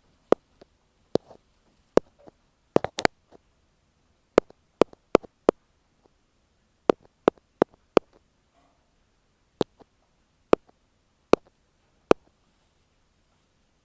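Ear pick tapping directly on an earphone microphone, close-up: about twenty crisp, separate taps at an uneven pace, a few in quick runs of two or three, with quiet between them.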